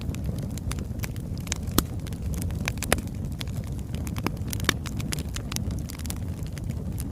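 Wood fire burning: a steady low rush of flames with irregular sharp crackles and pops from the burning logs, a few louder pops a couple of seconds in.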